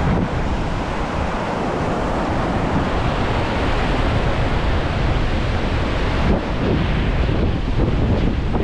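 Steady rushing of a fast glacial river below, mixed with wind buffeting the microphone.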